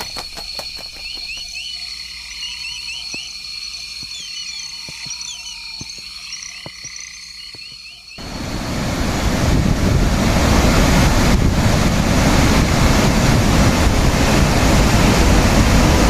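A night chorus of frogs and insects: steady high trilling tones with short chirps repeating over them. About eight seconds in it cuts abruptly to the loud, steady rush of the Victoria Falls waterfall.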